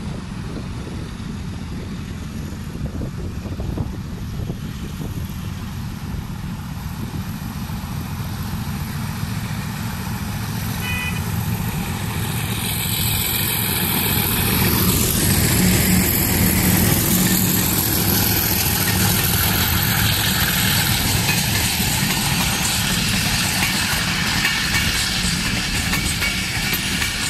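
Diesel locomotive hauling a passenger train, engine running with a low hum that grows louder as it approaches and is loudest as it passes about fifteen seconds in. After that the coaches' wheels roll steadily over the rails.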